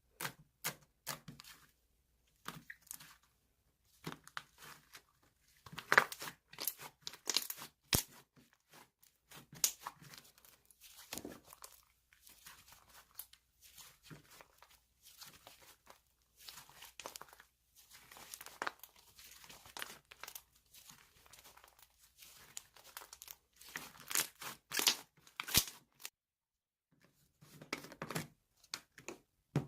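Packaging being torn open and crinkled by hand, in irregular crackly bursts with a short pause near the end.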